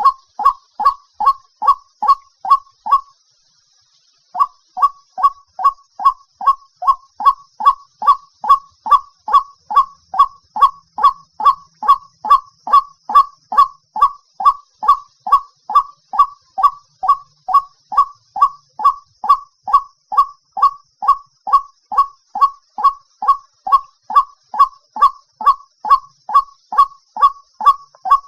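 White-breasted waterhen call, a loud series of short repeated notes at about two a second, each dropping slightly in pitch. The series breaks off for a second or so about three seconds in, then resumes at the same pace.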